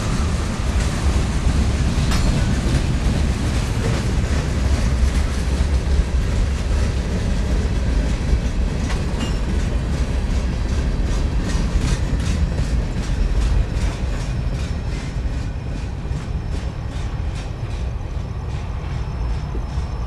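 Freight train cars rolling past close by: a steady heavy rumble with the clickety-clack of steel wheels over rail joints, the clicks coming in a regular run in the second half.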